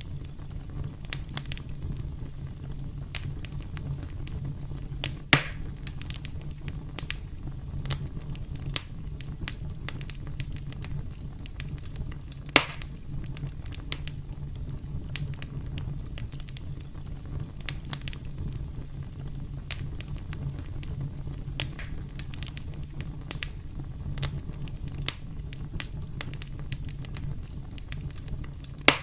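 Campfire burning: a steady low rumble with frequent small wood crackles, and two louder pops about five and twelve seconds in.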